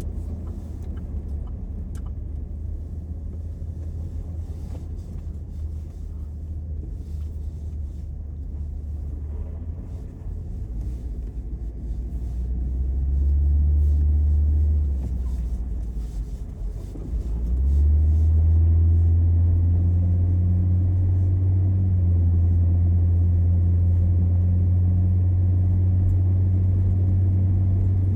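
Car driving, a steady low rumble of engine and tyres. It swells about twelve seconds in, dips briefly, then grows louder again and holds steady.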